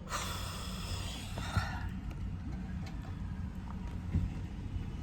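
Low steady rumble of traffic, with a brief harsh higher-pitched vehicle sound lasting about two seconds at the start.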